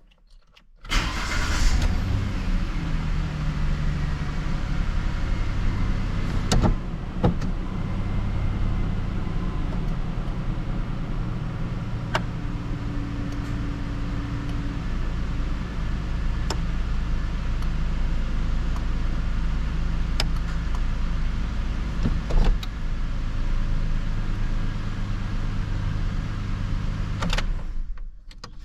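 A 2009 Ford Ranger's engine is cranked from cold and catches almost at once, about a second in, then runs at a steady idle. Several sharp clicks sound over the idle, and the engine is switched off near the end.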